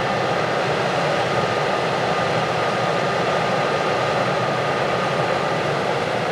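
Heavy farm machinery running steadily: an even machine noise with a thin, steady whine.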